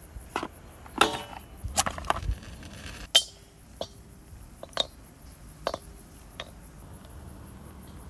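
A series of separate knocks and clinks of hard objects being handled and set down, about eight in all; the sharpest come about a second in and about three seconds in, the second leaving a short metallic ring.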